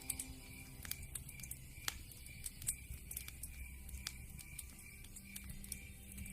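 Wood fire crackling in a fireplace: irregular sharp pops and snaps, a few louder than the rest, over a soft steady background.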